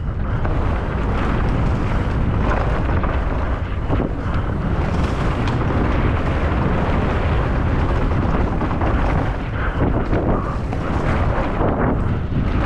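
Loud, continuous wind rush buffeting the microphone of a mountain bike rider's camera during a fast descent, with constant rattling and knocks from the bike running over rough ground.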